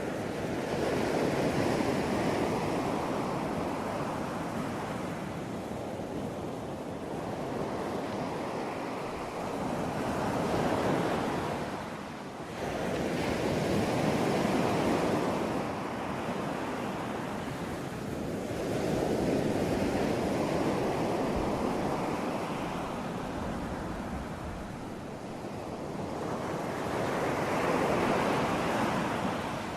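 Ocean surf: waves breaking and washing in, the rush of water swelling and easing in about five slow surges.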